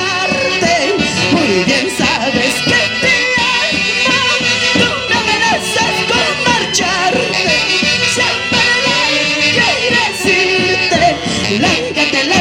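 Live Andean folk orchestra playing an instrumental passage, several melody instruments carrying a lively tune over a steady beat.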